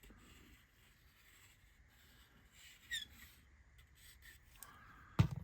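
Quiet handling of laser-cut wooden kit parts as an end wall is fitted, with a short high squeak about three seconds in and one sharp knock near the end.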